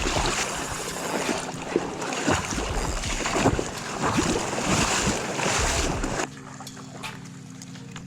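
Water splashing and sloshing with scattered knocks, until it cuts off abruptly about six seconds in, leaving a quieter steady low hum.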